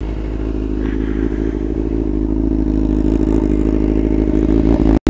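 Suzuki GSX-R motorcycle's inline-four engine running at a steady low pitch, slowly growing louder, with a momentary dropout near the end.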